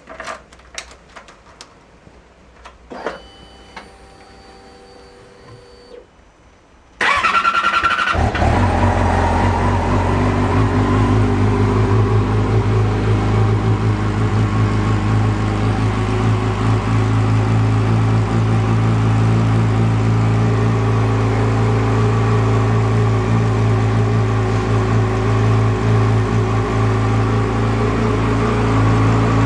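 2012 Yamaha R6 inline-four cold start. After a few quiet clicks and a faint electric hum, the starter cranks briefly about seven seconds in, the engine catches at once and then runs steadily.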